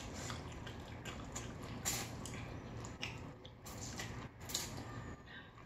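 Close-miked chewing and wet mouth sounds of people eating, with irregular small clicks scattered through.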